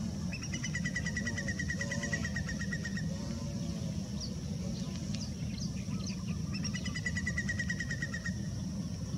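A bird's rapid, even trill, given twice, each lasting one to three seconds, with a few short high chirps between, over a steady low rumble.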